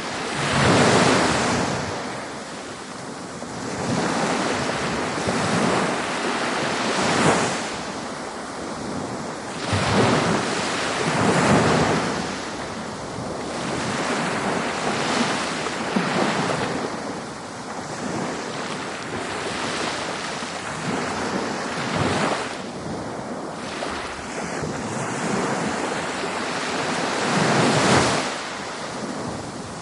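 Ocean waves breaking and washing up on a beach. The surf swells and falls back every few seconds, with the loudest surges about a second in, around ten to twelve seconds in, and near the end.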